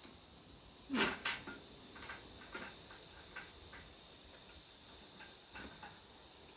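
Two sharp knocks about a second in, followed by scattered light ticks and taps, over a faint steady high-pitched tone.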